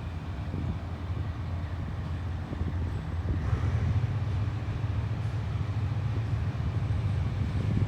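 Diesel locomotive engine running steadily, a continuous low drone.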